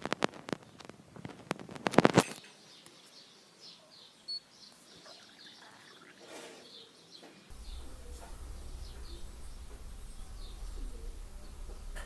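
A quick run of sharp clicks and knocks for about two seconds, then faint bird chirps and pigeon cooing. A steady low rumble comes in about halfway through.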